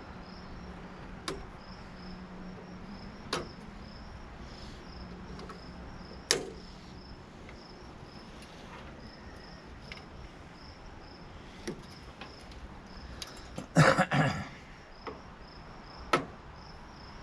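Crickets chirping steadily in a fast, even pulse, with scattered sharp clicks and knocks from work on a tankless water heater being taken apart. The loudest is a short clatter about two-thirds of the way through.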